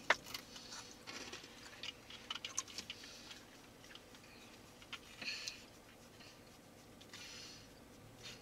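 A person chewing a crunchy snack close to the microphone. Crisp crunches and clicks are densest in the first three seconds, followed by a couple of softer crunching bursts.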